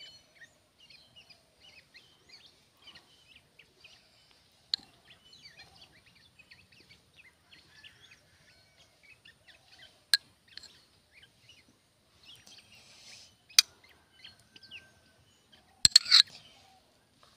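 Small birds chirping steadily in the background, with a few sharp clinks of a steel spoon against a ceramic plate spread through, and a short louder rustle near the end.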